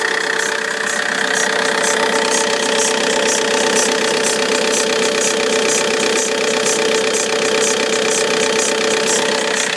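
Vauxhall Insignia 2.0 CDTI four-cylinder diesel idling with a steady whine and an evenly repeating high ticking. The noise comes only on cold start, and the owner suspects the auxiliary belt, pulley or tensioner on the alternator side.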